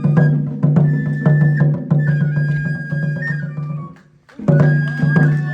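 Japanese festival lion-dance music: a high bamboo flute playing a melody over regular drum strikes, about two or three a second. The playing breaks off briefly about four seconds in, then starts again.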